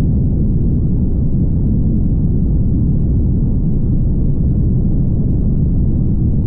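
Steady low rumble of a car driving at highway speed: road and tyre noise with engine hum, even and unchanging.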